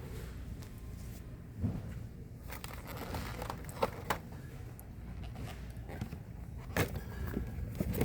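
A few sharp plastic clicks and rattles from handling blister-packed die-cast model cars, loudest a little under four seconds in and again near seven seconds, over a steady low background hum.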